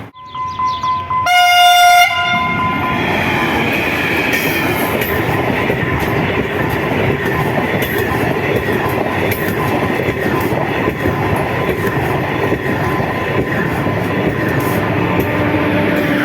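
A diesel locomotive's horn sounds a short blast about a second and a half in. A train then passes close by with a steady rumble and wheels clattering over the rail joints.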